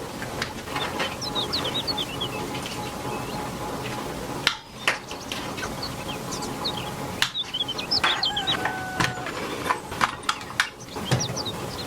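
Birds chirping in quick, high, short notes, with several sharp knocks or clicks in between.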